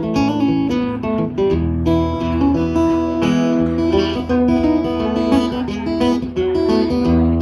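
Acoustic guitar playing an instrumental passage between sung verses, plucked notes over a low bass line.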